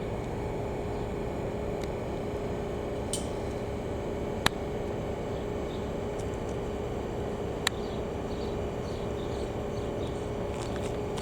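Steady low rumble with a constant hum from an idling diesel train locomotive, broken by a few sharp metallic clicks about three, four and a half and seven and a half seconds in.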